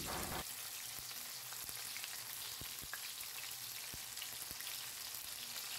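Flour-coated chicken legs deep-frying in hot mustard oil in a steel wok: a steady, faint sizzle with a few faint ticks.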